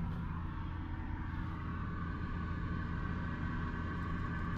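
Tow truck engine idling steadily, a low even hum heard from inside the cab.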